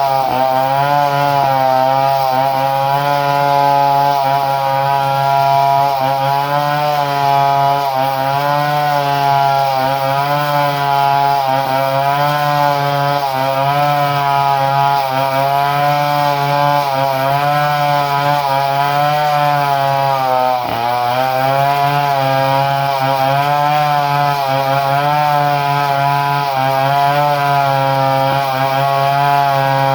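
Two-stroke chainsaw engine running at a steady, fairly high speed, its pitch wavering slightly, with one brief dip in speed about two-thirds of the way through.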